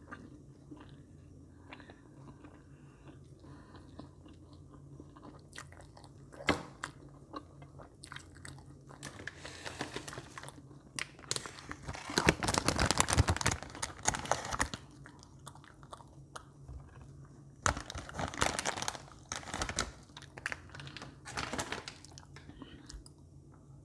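Close-miked chewing and biting of marshmallows, in quiet stretches broken by bursts of mouth noise. About halfway through comes the loudest stretch, a couple of seconds of plastic marshmallow bag crinkling, followed by more bursts of chewing.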